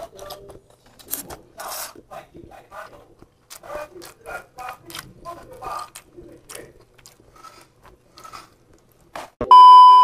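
Close-miked eating: chewing and wet mouth clicks and smacks from a person eating fried glass noodles and rice by hand. Near the end a loud steady test-tone beep cuts in for about half a second.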